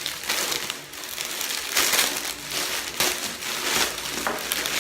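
Plastic packaging crinkling and rustling in irregular bursts as a pair of shorts is handled and unwrapped.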